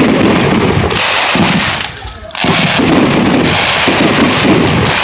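Fireworks display going off: dense bursts and crackling in two long runs, with a brief lull about two seconds in.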